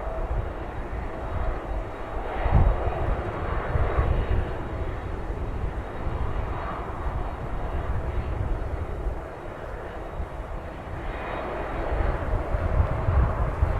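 Jet engines of a Boeing 767-300 running at takeoff power, a continuous rushing roar that swells again near the end, with strong wind gusting over the microphone.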